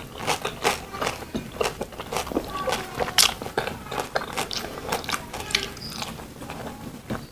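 Mukbang-style chewing and lip smacking of a mouthful of rice and vegetables eaten by hand: a run of irregular sharp clicks, several a second.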